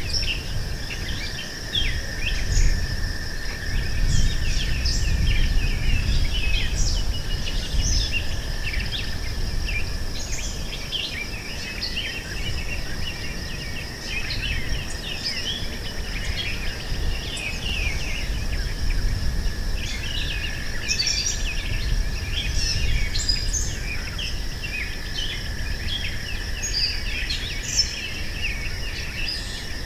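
Meadow ambience: many birds chirping and singing over a steady insect drone held at two pitches, one high and one lower, with a low, uneven rumble beneath.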